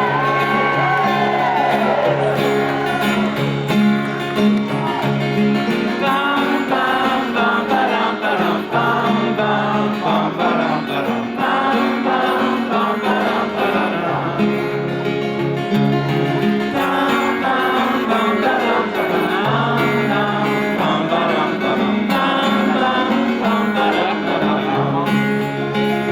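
Live folk-rock band playing an instrumental break of the song, guitar and other plucked strings over a steady bass line, with a few sliding high notes at the start.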